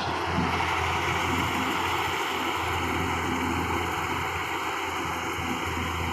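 Rice combine harvester running steadily: a continuous machine drone with a low engine hum that swells and eases.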